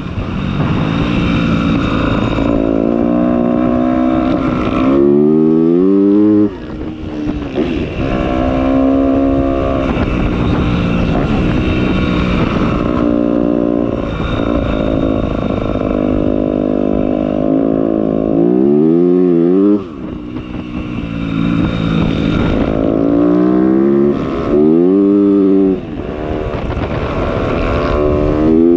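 Motocross bike engine under way, held at steady revs for stretches and several times revving sharply up in pitch, with brief drops as the throttle is let off.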